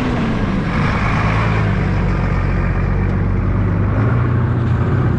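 Strong wind buffeting the microphone over a running engine, whose pitch drops a little near the start and rises again near the end.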